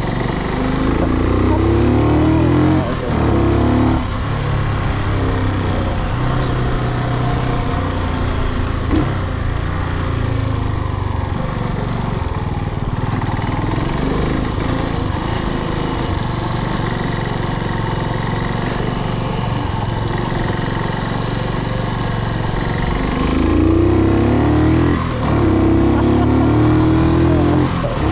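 Brixton Cromwell 250's single-cylinder four-stroke engine running under way. The revs climb about half a second in and again near the end, dropping back sharply at each gear change, with steadier cruising in between.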